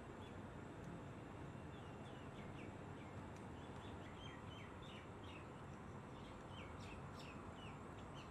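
Birds chirping in short, high notes repeated many times, busiest in the middle, over a faint steady background hiss.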